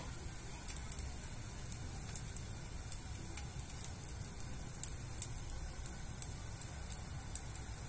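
Raw gyoza frying in a thin layer of sesame oil in a non-stick pan: a steady, fairly quiet sizzle with scattered small crackles as the bottoms begin to crisp.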